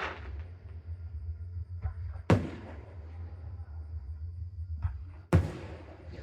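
Aerial fireworks shells bursting: two loud booms about three seconds apart, each followed by a rolling echo, with a few fainter pops between them.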